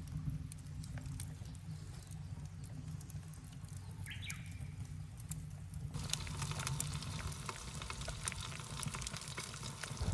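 Wood fire burning in a cyclone-type fire stove: a low steady roar with scattered crackles. About six seconds in, the crackling and hiss suddenly become much denser.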